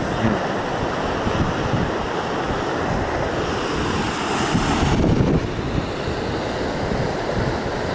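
Strong gusty wind buffeting the microphone, with a steady rush of flowing river water underneath; a louder, hissier gust swells about four seconds in and drops off sharply a second later.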